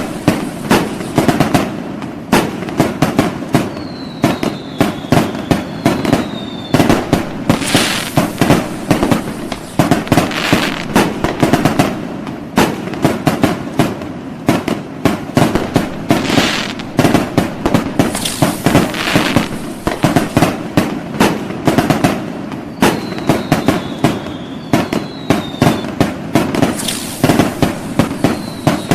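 Fireworks going off in a dense, continuous barrage of rapid bangs and crackling, many reports a second. Short falling whistles are heard a few times.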